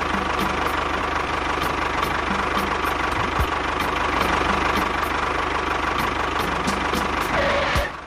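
An engine idling steadily with an even low throb, cutting off suddenly near the end.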